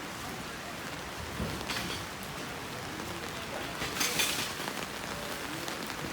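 Rain falling and pattering on hard surfaces, a steady hiss with brief louder splashy surges about two seconds in and again about four seconds in.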